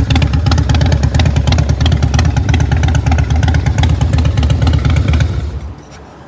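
Harley-Davidson Deuce's V-twin engine idling with a loud, rapid, even pulse. It is shut off about five and a half seconds in and dies away.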